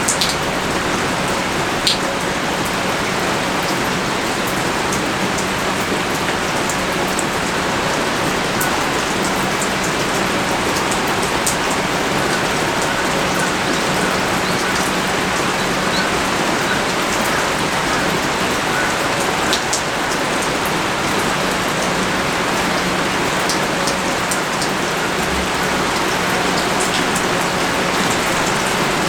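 Heavy rain pouring steadily, a dense even hiss with scattered sharper drop clicks.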